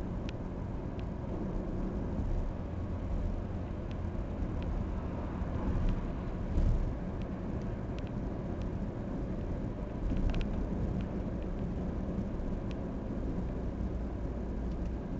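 Heavy truck engine running steadily with a low rumble that swells briefly about six and a half seconds in, with scattered light ticks.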